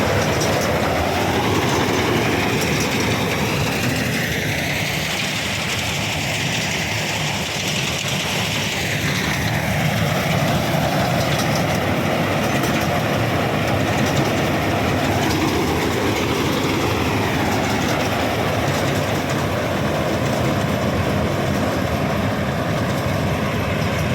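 Combine harvester working a paddy field: its engine and threshing machinery run loudly and continuously, with slow rising and falling sweeps in pitch as the load changes.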